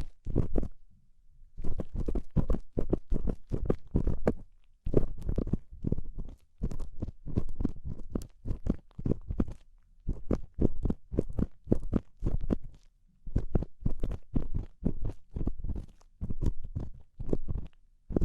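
An ear-cleaning tool scratching and scraping close against the microphone in quick, crunchy strokes, about four a second, with short pauses about a second in, midway and about thirteen seconds in.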